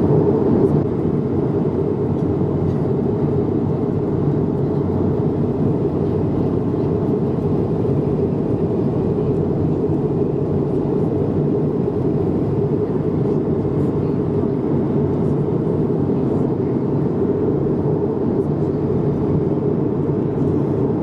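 Airbus A220-300 passenger cabin noise in cruise: a steady low rush of airflow and engine drone that holds even throughout.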